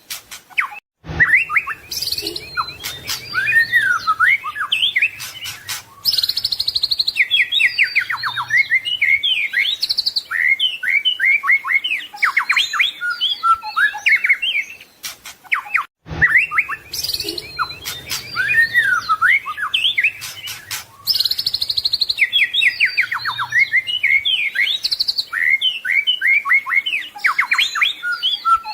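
White-rumped shama singing a fast, varied song of whistles, trills and rapid note runs mixed with mimicked phrases. The same recorded passage starts over after a brief break about a second in and again about halfway through, a loop of roughly fifteen seconds.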